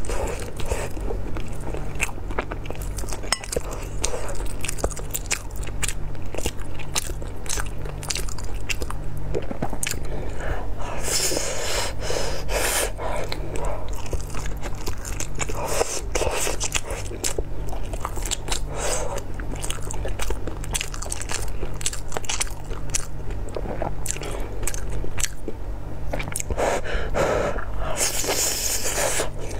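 Close-miked eating of a rice-stuffed blood sausage in chili sauce: biting, wet chewing and lip smacking, with many small mouth clicks and a few louder hissing breaths, about eleven seconds in and again near the end. A steady low hum runs underneath.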